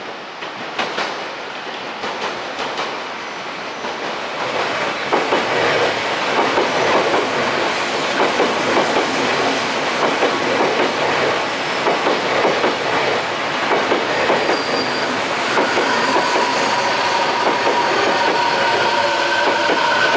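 Odakyu 4000 series electric train running along the platform, its wheels clacking over rail joints, growing louder. From about three quarters of the way in, a steady whine of several high tones joins.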